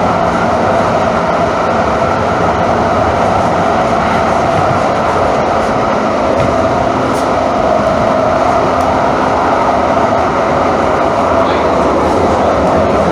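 Calgary Transit CTrain light-rail car running at a steady speed: an even, unbroken rumble of wheels on rail with a low motor hum.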